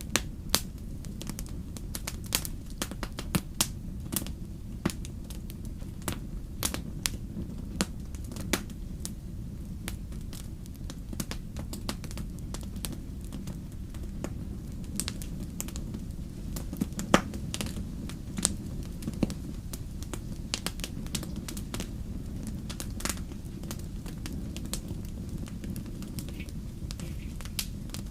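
Wood fire crackling and popping, with irregular sharp snaps several times a second over a steady low rumble of the flames; one louder pop about two-thirds of the way through.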